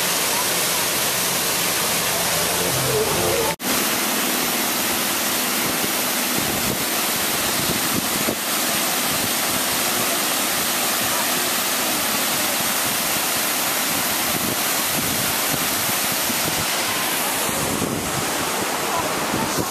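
Steady, loud rush of a large waterfall, falling water filling the whole range from low to very high pitches. The sound cuts out for an instant about three and a half seconds in.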